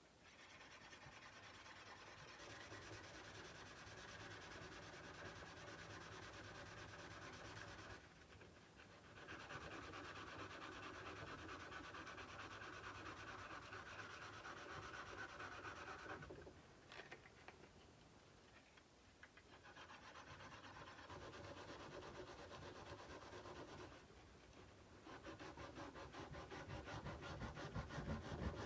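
Faint hand sanding of a kukri blade: sandpaper rubbed along the steel in four steady spells with short pauses between. The strokes turn quicker and more rhythmic near the end.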